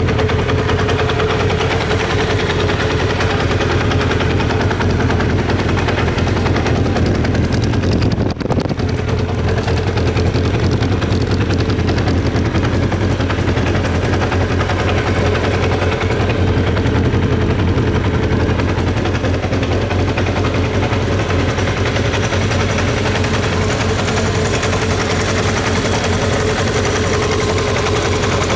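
Kawasaki Zephyr 750RS air-cooled inline-four engine idling steadily, with one brief dip in level about eight seconds in.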